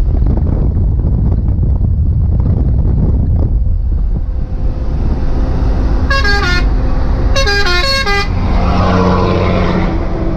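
Truck engine and road noise, with a multi-note musical horn played twice, a short tune about six seconds in and again a second later. A louder rushing noise follows for a second or two.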